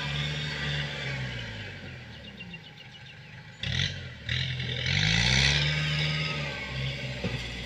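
ZT 155 tractor's engine running. Its speed and loudness sink over the first few seconds, then pick up again after a short loud burst of noise about halfway through.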